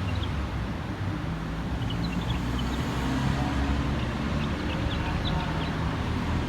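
Steady low rumble of background noise, with a small songbird's short, faint high chirps scattered over it, in clusters about two seconds in and again about five seconds in.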